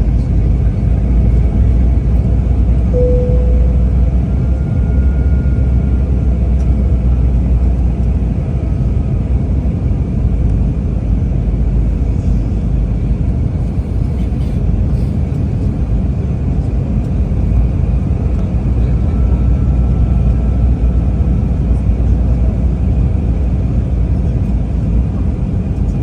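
Steady low rumble of an Airbus A320-family airliner's engines and airflow, heard inside the cabin during the approach, with a short faint tone about three seconds in.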